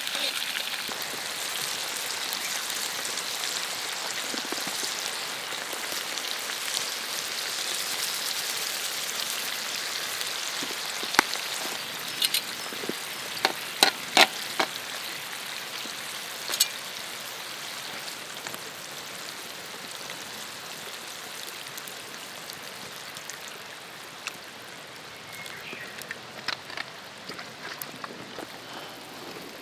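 Food frying in a pan over a campfire: a steady sizzling hiss that slowly dies down, with a few sharp clicks and taps in the middle.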